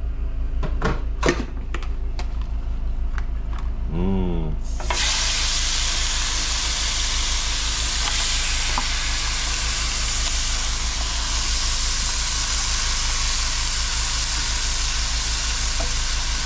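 Fresh frog legs going into hot olive oil in a pot: a few clicks of handling, then a loud, steady sizzle that starts suddenly about five seconds in, over a steady low hum.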